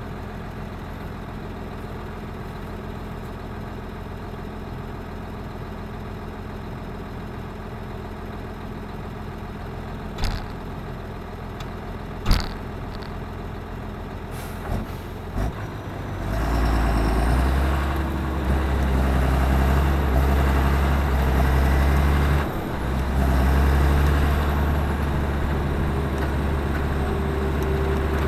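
Claas Axion 820 tractor's six-cylinder diesel engine idling steadily, with a few sharp knocks about halfway through. The engine then speeds up and runs louder under load, with a high whine that rises and falls, dipping briefly once before carrying on.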